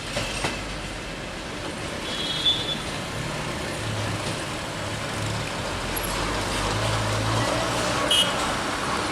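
Mohananda Express passenger train rolling past in a steady rumble, with no distinct wheel clicks. There are two short high squeals, one about two seconds in and one near the end.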